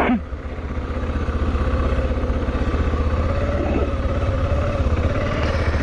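BMW G650GS's single-cylinder engine pulling away and then running at low speed, growing louder over the first couple of seconds and then holding steady.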